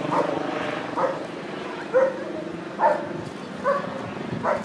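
Police dog barking repeatedly, about one bark a second.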